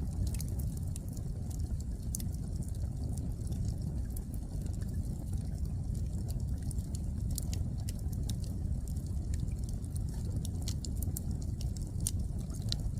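Wood fire burning: a steady low rumble of flames with frequent, irregular sharp crackles and pops from the burning logs.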